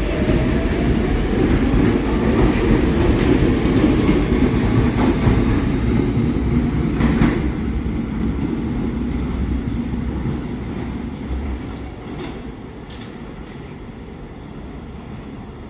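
New York City subway train of the older SMEE type running on the rails, wheels clattering over rail joints with a few sharp clacks. It is loud at first, then fades steadily over the second half.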